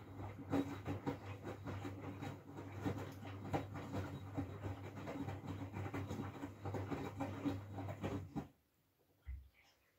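Miele W433S front-loading washing machine in its main wash, heating to 60°C: the drum tumbles wet laundry with a low hum and irregular knocks and sloshes. It stops abruptly about eight and a half seconds in, followed by near silence and one soft low thump.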